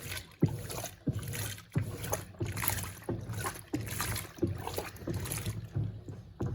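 Electrolux LTC07 top-loading washing machine agitating: the agitator reverses about every two-thirds of a second, churning water and clothes over a low motor hum. The higher swishing thins out near the end.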